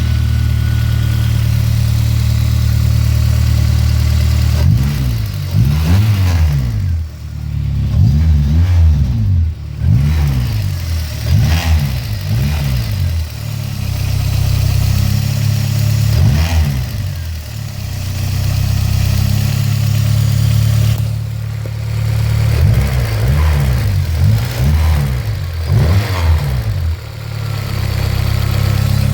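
Honda S2000's F20C 2.0-litre inline-four running at idle, revved briefly again and again with short throttle blips that rise and fall back to idle. The owner suspects an abnormal noise from the engine.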